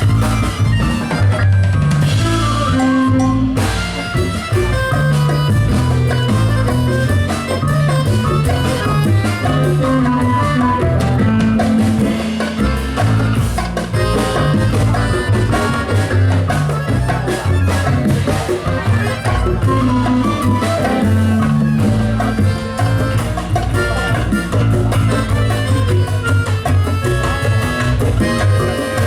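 A live band playing, with drum kit, percussion and a strong, moving bass line under a busy run of short pitched notes, continuous throughout.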